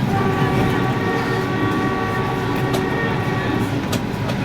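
Vande Bharat Express running at speed, heard from inside a coach: a steady rumble of wheels on rails with a thin steady whine over most of it that fades out near the end.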